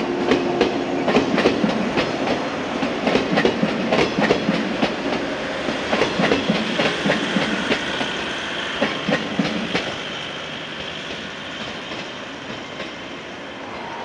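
JR West 115 series electric train (Okayama set D09) running past and away over jointed track and points. Wheel clacks come in quick runs, loud for about ten seconds, then thin out as the train recedes.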